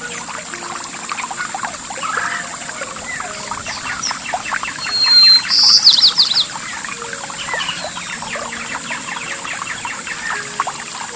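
Several songbirds chirping and singing over trickling water. About halfway through, one bird gives a bright whistled note and then a quick trill, the loudest sound here.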